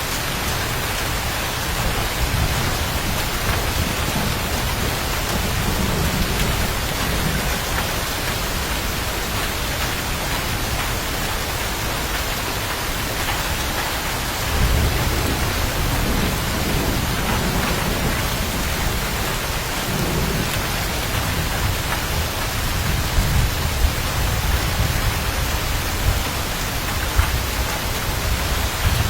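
Steady, heavy rain hissing down, with thunder rumbling low in the background. A louder, longer roll of thunder begins about halfway through.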